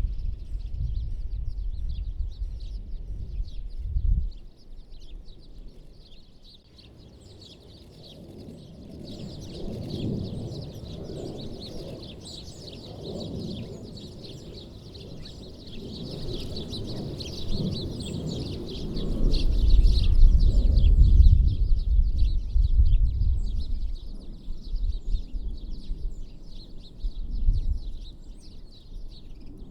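A flock of small songbirds chirping and twittering in quick, overlapping calls, with a low rumble underneath that swells for a few seconds past the middle.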